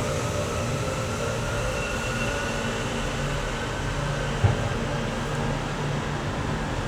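Steady low rumble of background noise, with faint drawn-out whining tones above it and one short thump about four and a half seconds in.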